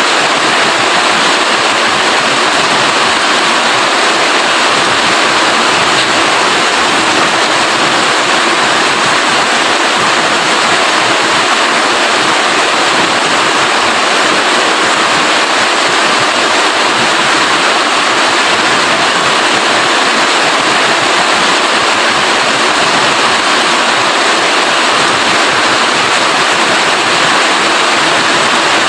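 Steady rain falling, a dense, even hiss that doesn't change.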